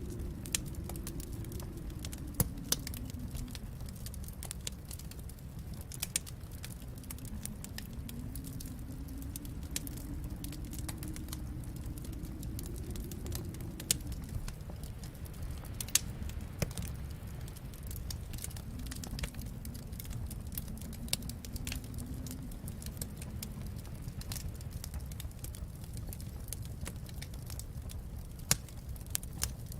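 Wood fire crackling in a fireplace: sharp irregular pops and snaps over a steady low rumble, with a faint low howl that rises and falls a few times.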